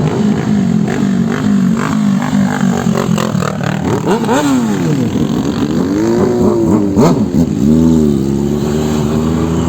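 Motorcycle engine running at road speed, its pitch dropping and rising several times in the middle as the throttle changes, over a steady rush of wind and road noise.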